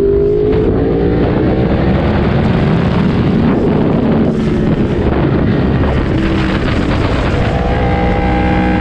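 Sport motorcycle engine running hard on a racetrack, its pitch climbing early on as it accelerates and holding steady near the end, with wind rushing over the microphone.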